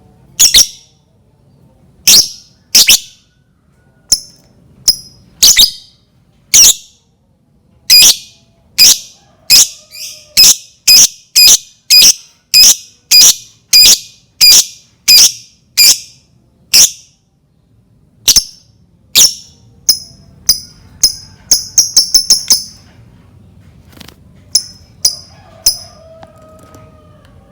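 A lovebird repeating loud, sharp, high-pitched chirps, one at a time at about one or two a second. About two-thirds through they come in a quick burst, then space out again. It is a lure call of the kind used to set other lovebirds calling.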